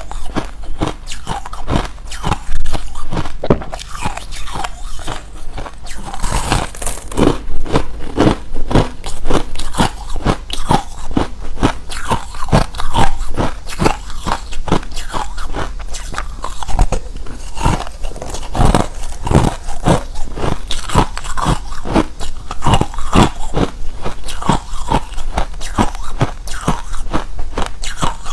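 Close-miked crunching of hard refrozen crushed ice being bitten and chewed, a rapid irregular run of sharp crunches several times a second.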